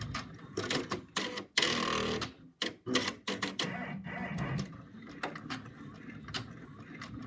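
Computerised embroidery machine stitching out small filled circles, a quick run of clicking needle strokes that is uneven and briefly stops about one and a half and two and a half seconds in.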